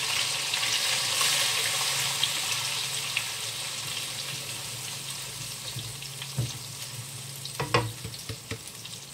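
Blended spice paste sizzling as it is poured into hot oil in a wok and stirred with a spatula; the hiss is loudest at first and dies down gradually. A few knocks sound near the end.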